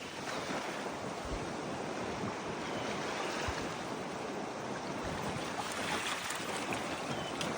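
Steady rush of wind and water, with wind buffeting the microphone in a few low thumps.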